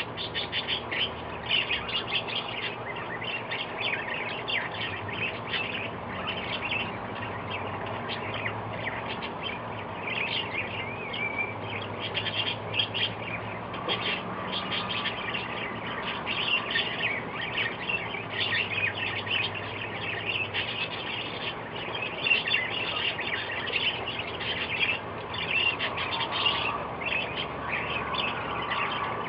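Many small birds chirping and twittering together, a dense chorus of short, high chirps that never lets up.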